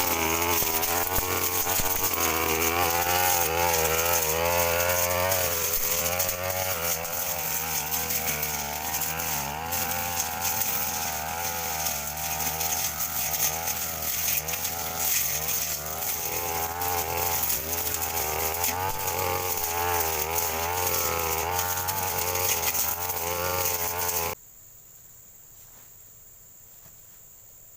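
Two-stroke brush cutter engine running hard, its pitch wavering up and down as it cuts grass. It cuts off abruptly about 24 seconds in, leaving a faint steady insect drone.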